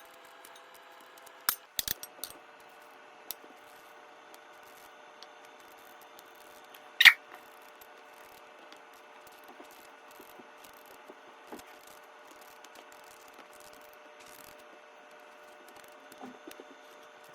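Kitchen food-prep handling noises: a quick cluster of sharp clicks and knocks about two seconds in, one loud clatter about seven seconds in, and a few light ticks, over a steady faint hum.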